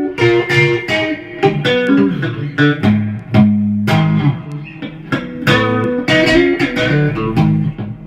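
Guitar playing a heavy blues riff: a quick run of plucked notes over low, ringing bass notes.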